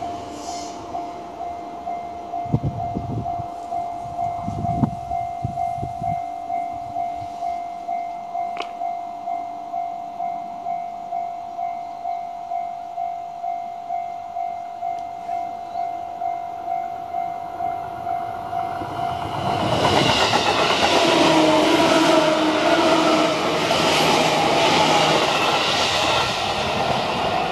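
A steady electronic warning tone pulses about one and a half times a second, like a Japanese level-crossing alarm ringing for an approaching train. About twenty seconds in, a Chuo Line electric local train passes close by, and the noise of its wheels and running gear drowns the alarm.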